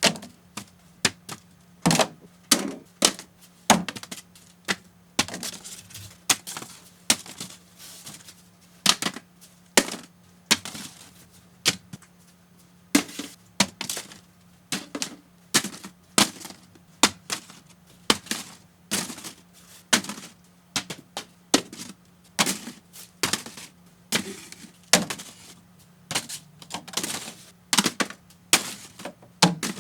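Paper airplanes striking an empty miniature fridge and landing: an irregular run of sharp taps and clicks, about two a second, some much louder than others, over a faint steady hum.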